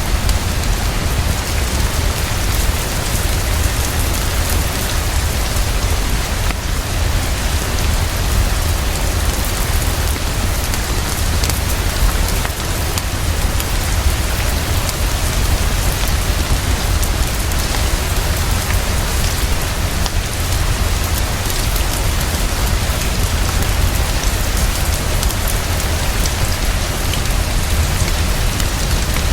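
Heavy, fast, steady rainfall with a constant low rumble underneath.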